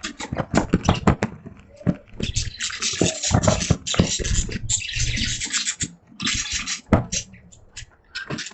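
Caged budgies making a rapid run of sharp clicks and bursts of scratchy, hissing noise, with the longest burst running from about two to nearly five seconds in.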